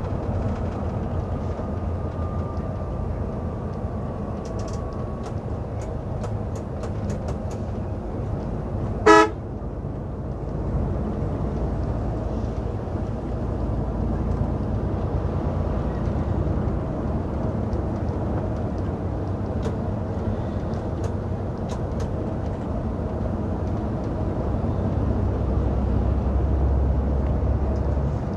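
Steady rumble of road vehicles, with one short, loud horn honk about nine seconds in.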